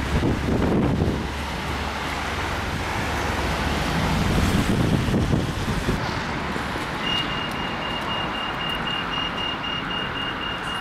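Outdoor street noise of road traffic and wind. About seven seconds in, a rapid, evenly pulsed high-pitched electronic beeping starts, about three beeps a second.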